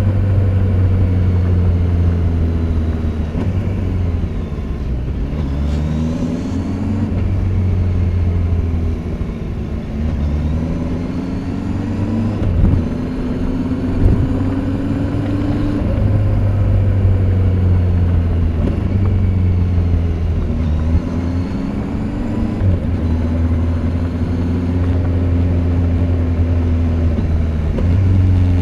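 Kawasaki Z800's inline-four engine through its stock exhaust while riding. The revs climb and drop again and again as it accelerates through the gears, with two short sharp knocks near the middle.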